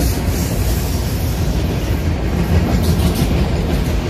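A train rolling past: a steady low rumble of wheels on rail, with scattered clicks as the cars cross rail joints.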